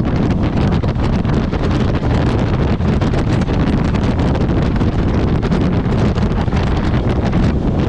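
Heavy wind buffeting the microphone of a motorcycle riding at speed, with the bike's running noise steady underneath.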